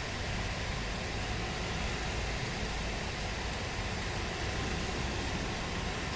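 Steady rain falling in a tropical downpour, an even hiss with a low rumble underneath.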